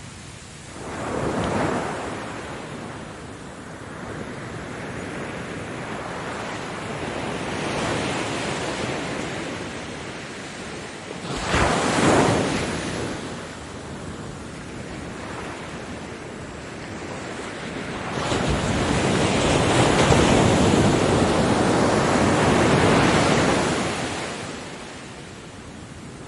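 Ocean waves breaking on a beach: three surges of surf, a short one about a second in, a sharp one about 12 seconds in, and a longer, louder wash from about 18 to 24 seconds that then recedes.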